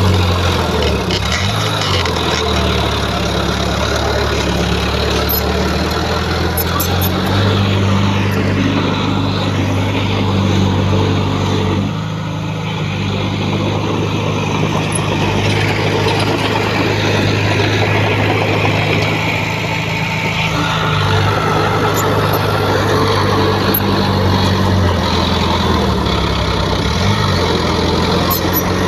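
Diesel engine of heavy earthmoving equipment running under work, its pitch stepping up and down several times as the load changes, with a brief dip about twelve seconds in.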